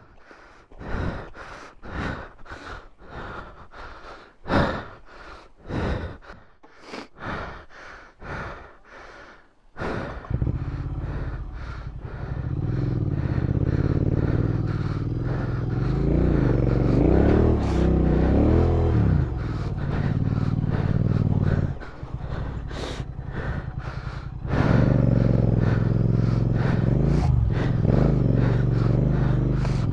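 A motorcycle engine comes in about a third of the way through and runs with its revs rising and falling unevenly, as a bike is worked through snow, with a short dip in the middle. Before it there is a run of short sharp sounds, about two a second.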